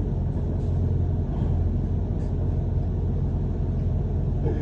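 Interior noise of a London bus: the engine and road noise as a steady, low sound.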